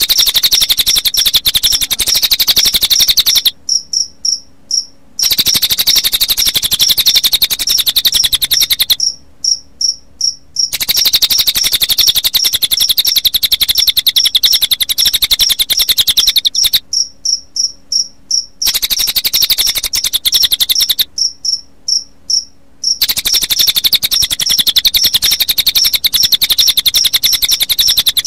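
Cililin bird's very rapid trilling song in runs of a few seconds with short breaks between them, mixed with the steady, evenly paced chirping of a cricket that carries on through the breaks. It is a mixed bird-and-cricket track used to train cage birds to sing.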